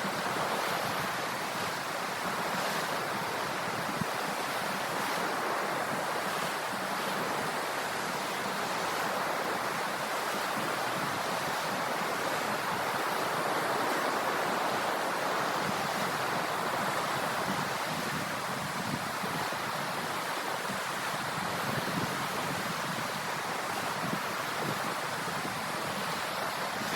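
Sea waves washing onto the shore in a steady surf, swelling and easing gently in level.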